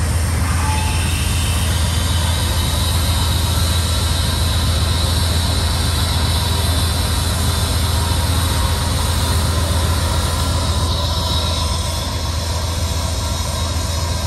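Steam locomotive standing or creeping at the station platform, giving a steady low hum under a continuous even hiss, easing off slightly near the end.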